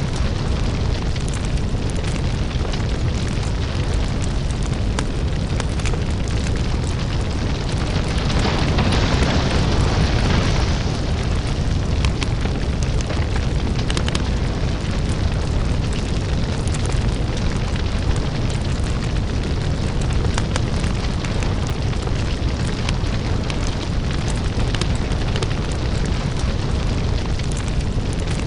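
Crackling lava-fire ambience: a deep, steady rumble with scattered small crackles and pops throughout. About eight seconds in, a louder hiss swells for about three seconds and then settles back.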